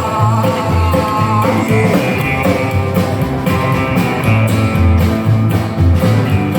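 Live rock and roll band playing an instrumental break: electric guitar over bass and drums with a steady beat.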